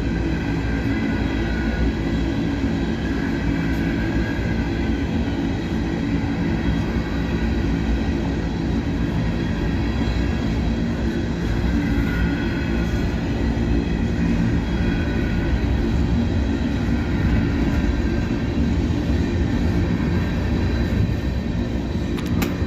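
Empty rotary-dump coal cars of a long freight train rolling slowly past: a steady rumble of steel wheels on rail, with a faint high squeal now and then.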